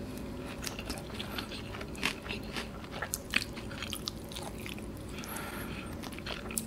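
Close-up eating sounds of sauce-coated, bone-in fried chicken karaage being bitten and chewed: soft bites, wet mouth clicks and lip smacks at irregular moments, the sharpest about two seconds in and again just after three seconds.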